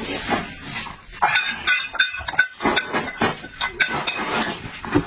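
Close-up eating sounds: irregular smacking and chewing, with utensils clinking against a dish.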